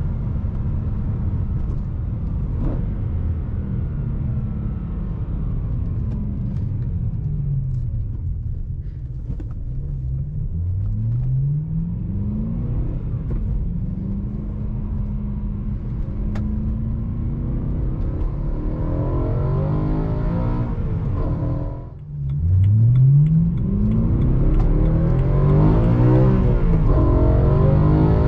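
BMW E92 M3's 4.0-litre V8 running through an Akrapovic exhaust, revs rising in several pulls with breaks between them. The level drops briefly about three-quarters of the way through, then the engine pulls harder and louder with climbing revs to the end.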